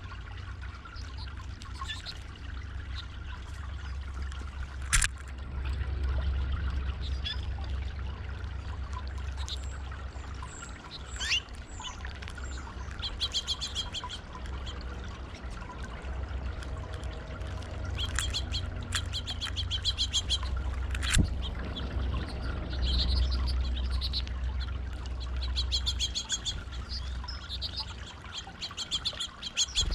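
Water trickling and pouring over a stone fountain, with small birds chirping in quick repeated trills several times, and a couple of sharp clicks.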